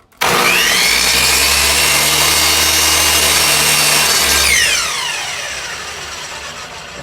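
Electric miter saw switched on and running at full speed for about four and a half seconds while making a shallow partial-depth cut in wood. It is then switched off and winds down with a falling whine.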